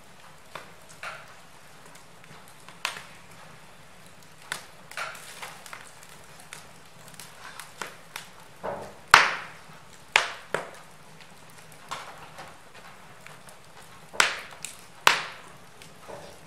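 Wood fire in a fireplace crackling, with irregular sharp pops over a faint steady hiss; the loudest pops come about halfway through and again near the end.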